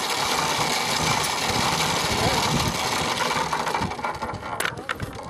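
Small engine of a 40cc mini dirt bike running with a steady buzz, growing fainter about four seconds in.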